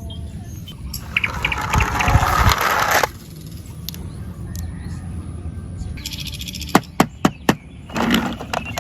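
Handling noise from unboxing toy cars: a couple of seconds of rustling and crinkling, then four sharp clicks in quick succession about seven seconds in, and more rustling near the end.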